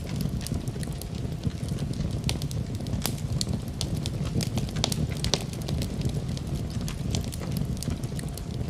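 Wood fire in a fireplace crackling and popping, with sharp irregular snaps several times a second over a steady low rumble of the flames.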